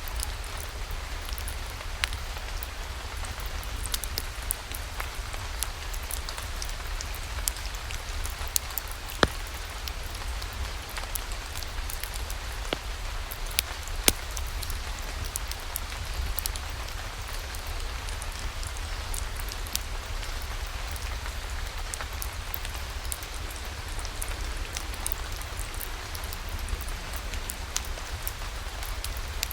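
Steady rain falling, an even hiss over a low rumble, with many scattered sharp drop clicks; the loudest come about nine and fourteen seconds in.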